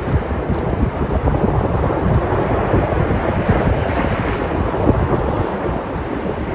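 Sea surf breaking and washing steadily, with wind buffeting the microphone; the hiss of the water swells a little around the middle.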